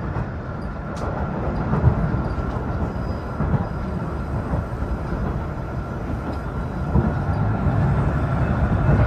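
Train running along the track: a steady rumble of wheels and running gear.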